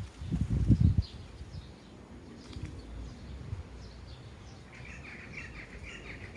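Sparrows chirping, with scattered faint chirps and then a quick run of repeated chirps near the end. A few low thuds in the first second.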